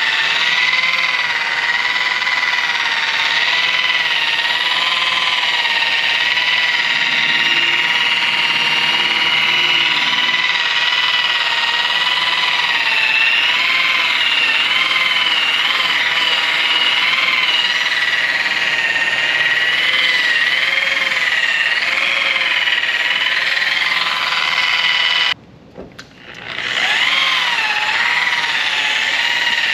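Electric polishing machine running on aircraft aluminium brightwork, a steady motor whine whose pitch wavers slightly as it is pressed against the metal. About 25 seconds in it stops for a moment, then spins back up.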